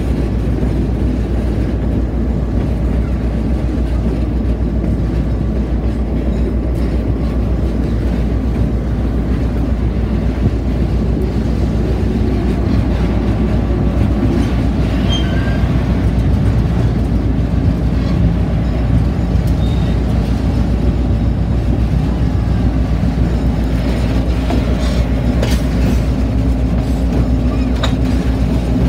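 Diesel-hauled passenger train running along the track, heard from an open car close to the locomotive: a steady loud din of wheels on rail and engine hum, with a few sharp wheel clicks near the end.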